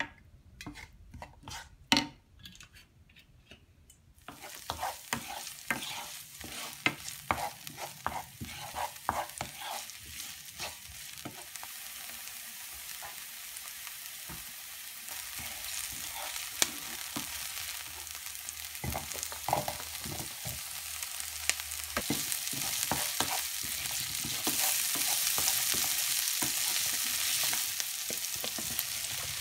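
Sliced green onions and garlic frying in oil in a nonstick pan, stirred: a sizzle that starts suddenly about four seconds in and grows louder, with frequent clicks of stirring against the pan. A few light clicks before the sizzle starts.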